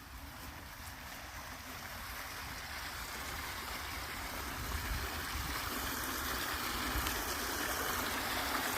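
Floodwater pouring out through a pond's overflow: a steady rushing of water that grows gradually louder.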